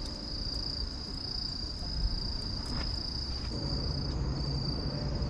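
Crickets trilling in one steady high note, over an uneven low rumble.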